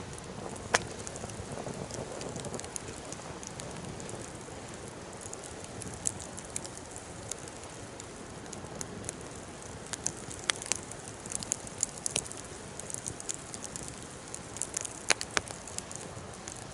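Wood fire burning in a Coleman Fire Disc fire pit: a steady hiss with scattered sharp crackles and a few louder pops.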